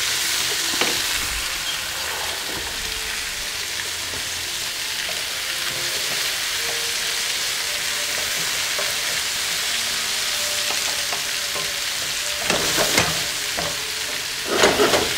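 Sliced zucchini rounds sizzling as they fry in a frying pan, stirred with a wooden spatula. Near the end come two short spells of louder clatter and scraping against the pan.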